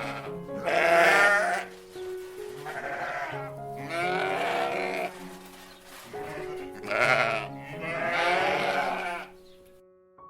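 About five loud, wavering animal calls, each lasting roughly a second, over a steady music bed.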